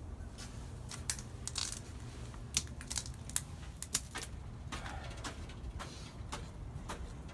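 Footsteps crunching and cracking on ice-covered stairs: irregular sharp crunches and clicks, several close together about a second in and again around three to four seconds in, over a low steady rumble.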